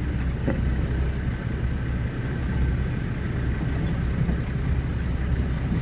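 Safari vehicle's engine idling, a steady low rumble.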